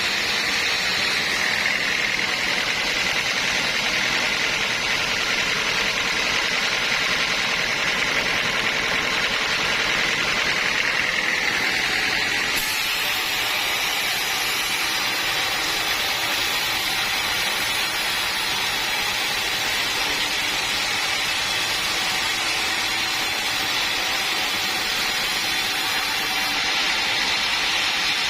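Sawmill saw running steadily, cutting teak wood, with a continuous hiss and whine; its tone changes about twelve seconds in.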